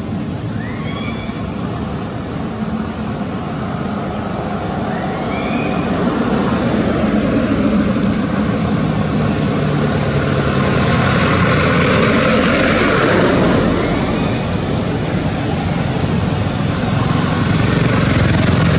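Steady road-traffic noise that swells about six seconds in, with a few short rising squeaks scattered through it.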